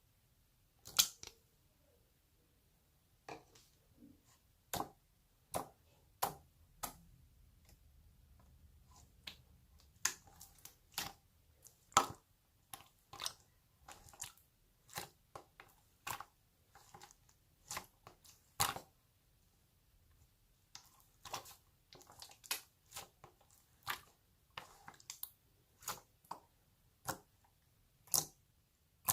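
Clear slime being squeezed and pressed by hand, giving irregular sharp wet pops and clicks, about one or two a second.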